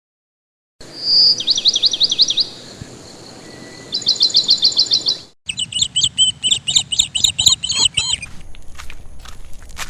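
Birds chirping in quick repeated trills, in two spells broken by a sudden cut about halfway through, followed by scattered sharp clicks near the end.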